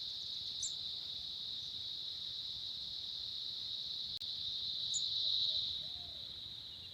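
Insects, such as crickets, droning steadily in one high-pitched note, swelling slightly about five seconds in and briefly cutting out just after four seconds.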